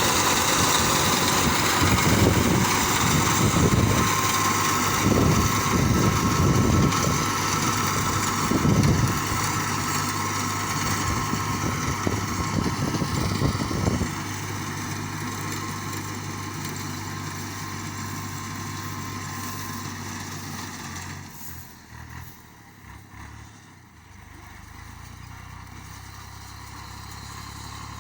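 Tractor engine running, loud with uneven surges for the first half, then dropping to a quieter, steadier sound that fades further and partly returns near the end.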